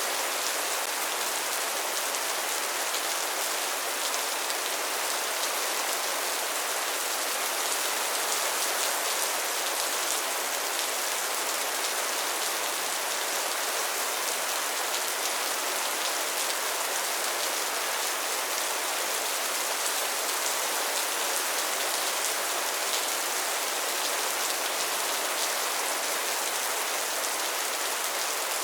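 Steady rain falling: an even hiss with faint individual drop ticks, no thunder.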